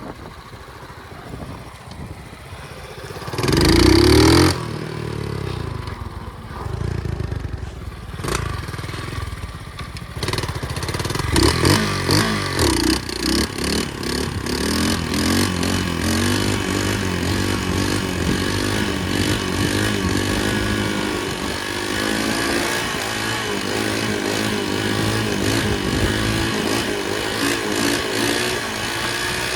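Small single-cylinder pit bike engine running while ridden, its revs rising and falling. It gives a loud, short burst about four seconds in and runs steadily louder from about ten seconds on.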